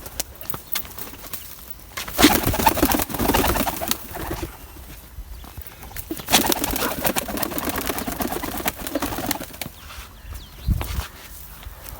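Roller pigeons cooing in bouts, with a few sharp clicks between the bouts.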